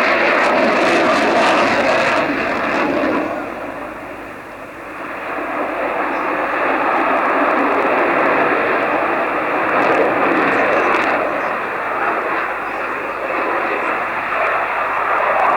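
Dassault Rafale's twin SNECMA M88-2 turbofan engines running loud during a fast display pass: a steady jet rush that eases off for a moment about four seconds in, then builds back up and holds.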